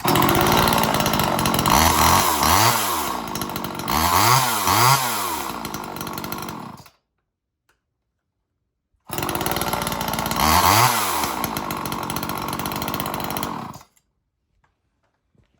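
Small, old two-stroke chainsaw running and revved up and down several times. It cuts off abruptly about seven seconds in, then runs again from about nine seconds in, with one more rev, until it stops about fourteen seconds in.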